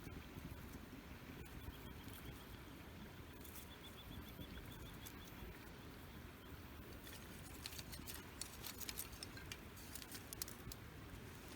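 Small campfire crackling: a low steady rush with scattered sharp pops and ticks of burning wood, which come much more often in the second half.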